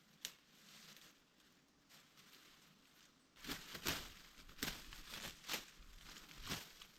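Leaves and twigs rustling and crackling, faint at first, then a run of irregular rustles with sharp snaps from about halfway through, as green leafy bedding material is handled.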